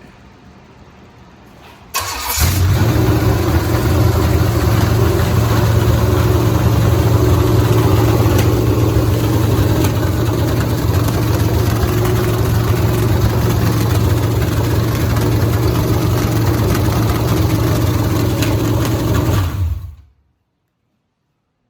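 Chevrolet 327 small-block V8 being test-fired: it catches suddenly about two seconds in and runs loud and steady, then cuts off abruptly near the end.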